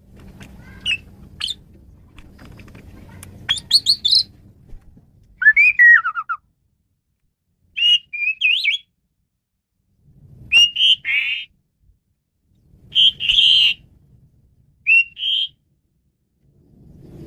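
Male Asian pied myna (jalak suren) singing: a string of short, varied whistled phrases, some gliding and one sliding down in pitch, separated by pauses. A faint low hum lies under the first few seconds.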